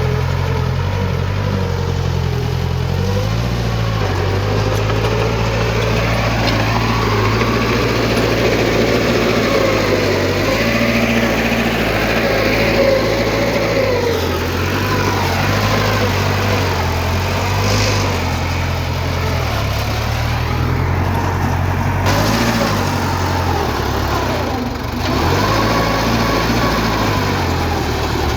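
Diesel engines of heavy earthmoving machinery running continuously, their pitch stepping up and down as the machines work under changing load.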